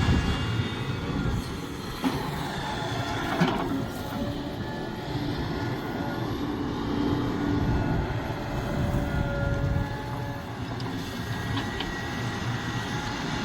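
Sumitomo SH370LHD-6 hydraulic excavator working: diesel engine running steadily with high metallic whines and squeals, and a sharp clank about three and a half seconds in.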